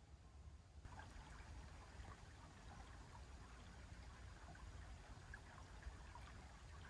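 Faint, steady rush of running water, starting about a second in.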